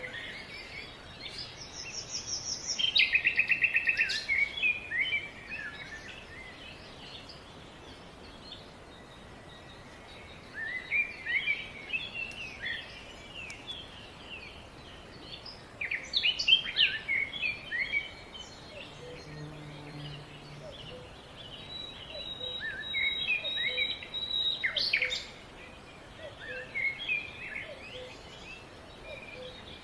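Several wild birds chirping and calling over one another in short, overlapping phrases against a steady background hiss, with a loud rapid trill about three seconds in.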